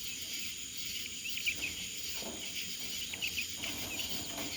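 Steady high insect drone with many short, high chirps scattered through it, and a few soft low bird calls from the flock about two seconds in and again near the end.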